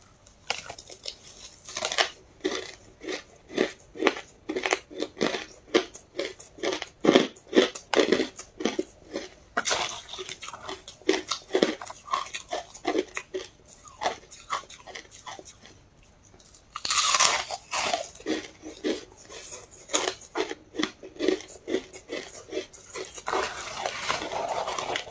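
Ice being bitten and chewed close to the microphone: a steady run of sharp crunches, a couple a second, which break off briefly a little past halfway and then resume with a longer, louder crunch.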